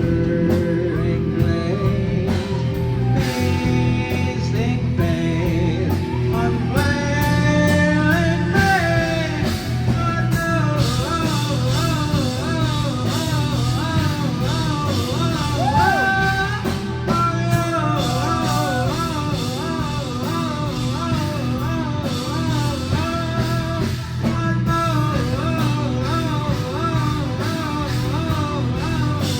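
Live rock band playing a song: steady bass and drums under a lead melody line that bends and wavers in pitch, coming in about seven seconds in.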